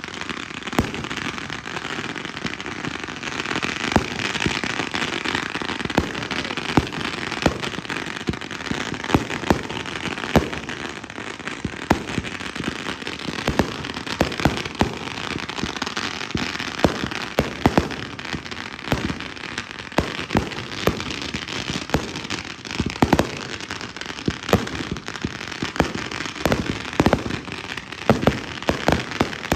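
Fireworks show in full swing: a constant crackle with frequent sharp bangs at irregular intervals, several a second at the busiest points.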